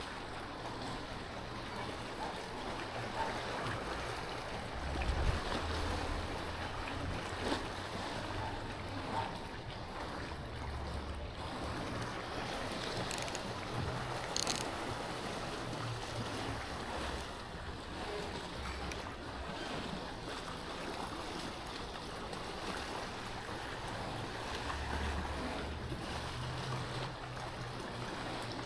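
Lakeside wind and water with gusts buffeting the microphone, and two sharp clicks about halfway through.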